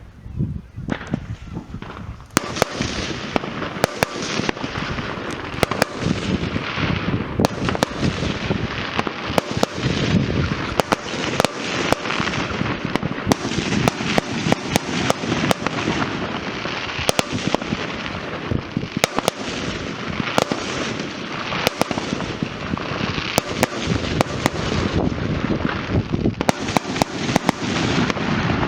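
Fireworks going off: after a few scattered bangs, a dense, continuous crackle of many small bangs sets in about two seconds in, with louder sharp bangs scattered through it.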